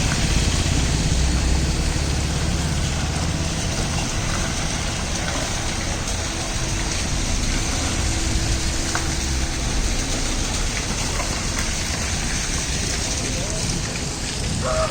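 Diesel engine of a loaded Ashok Leyland lorry running under a steady hiss. The low rumble is heaviest in the first few seconds and then eases.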